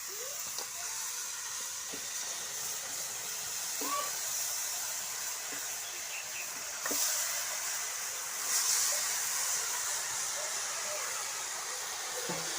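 Onions and ginger-garlic paste sizzling steadily in hot mustard oil in a kadai, the hiss swelling a little about seven and nine seconds in.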